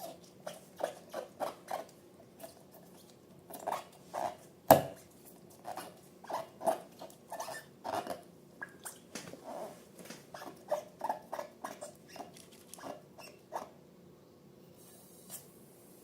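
Slime being squished and worked by hand: a run of short wet pops and clicks, several a second, with one sharper pop about five seconds in, thinning out near the end.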